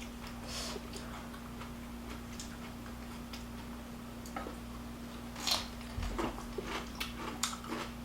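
Scattered soft clicks and smacks of close-up eating, more of them in the second half, over a faint steady hum.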